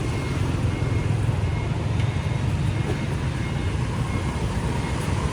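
Steady street traffic noise: a continuous low rumble of motor vehicles passing.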